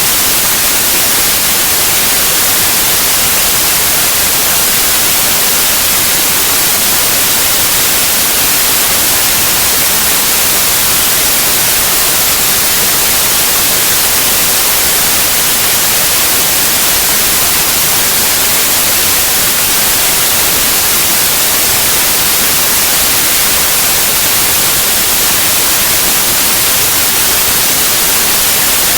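Steady, loud white noise: an even hiss with no changes or events.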